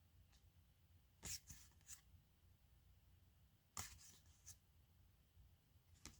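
Near silence broken by a few faint rustles and taps of trading cards being handled, in two short clusters about a second in and near four seconds in.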